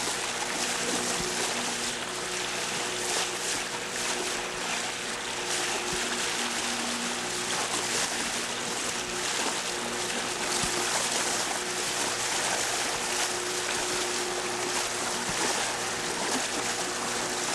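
A steady motor hum under a continuous rushing noise, as from a boat under way.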